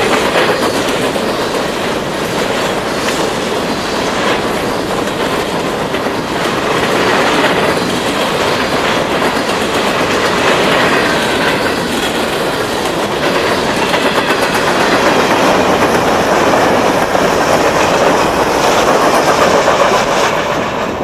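Empty grain hopper cars rolling past at track speed, steel wheels clicking over the rail joints in a steady rolling clatter, with faint wheel squeal in places.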